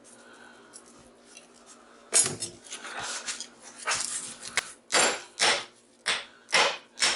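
Hammer striking a transformer core to knock its steel laminations loose, irregular knocks at first, then steady blows about two a second from about halfway in.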